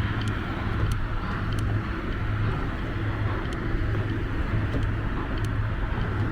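Heavy cutting chain sawing through the steel hull of the wrecked cargo ship Golden Ray, heard across the water as a steady low rumble that swells and eases in a slow rhythm, with faint metallic ticks.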